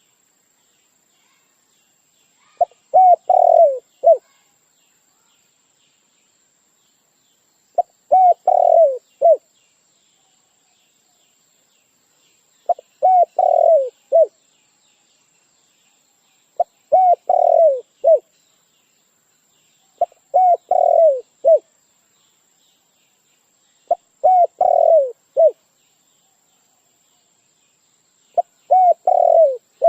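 Dove calling: seven short phrases of four or five low coos each, repeated about every four to five seconds.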